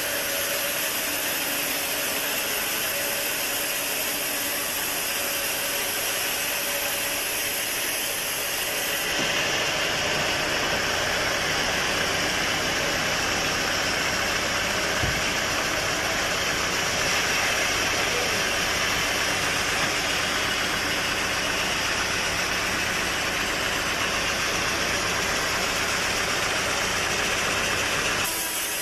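Sawmill machinery running steadily with a continuous mechanical noise. About nine seconds in it abruptly turns heavier and lower, like an engine running, and it switches back just before the end.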